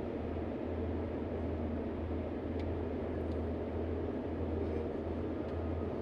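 Truck's diesel engine running with a steady low drone and road or cab noise heard from inside the cab.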